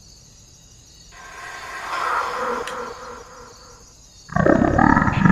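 A swelling whoosh that rises and fades, then, about four seconds in, a loud, rough creature roar breaks in, the loudest thing here.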